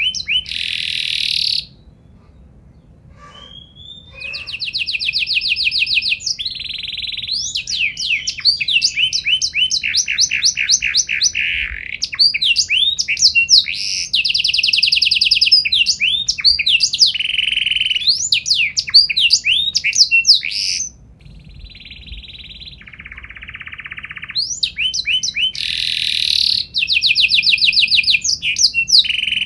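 Domestic canary singing a long song of rapid trills and fast runs of repeated up-sweeping notes, with softer stretches about two seconds in and again about two-thirds through.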